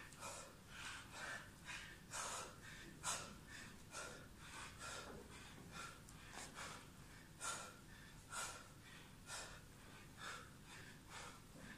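Short, hissing breaths pushed out sharply, about one or two a second at an uneven pace: a boxer exhaling with each punch while shadowboxing.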